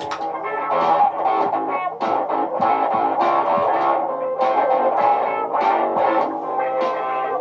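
Layered, looped electric guitar parts: quick plucked notes stacked over a steady sustained low note.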